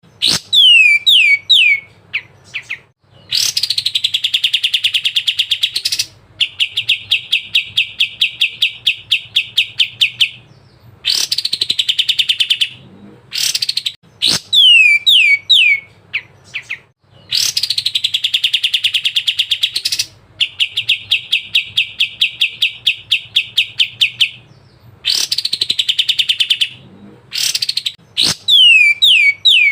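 Kapas tembak songbird calling: a few quick falling whistles, then long, very fast chattering trills, the same phrase sequence repeating twice over.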